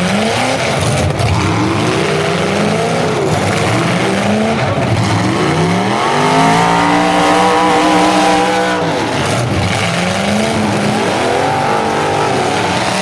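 Several full-size demolition derby cars' engines revving at once, their pitch rising and falling as the drivers accelerate and back off. About halfway through, one engine is held at high revs for a few seconds, the loudest stretch, before dropping away.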